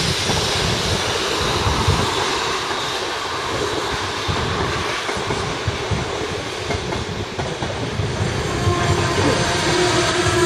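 Container freight train rumbling past on a viaduct, its wheels clattering and thudding over the rails. A steady squealing tone joins about eight and a half seconds in.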